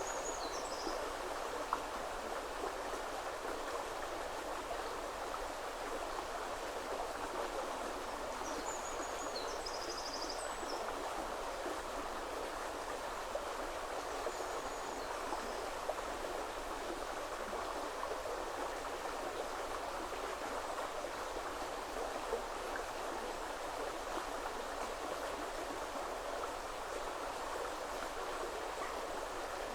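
A river flowing steadily, a constant rush of water. A few faint, high bird calls come through about a second in and again around ten and fifteen seconds in.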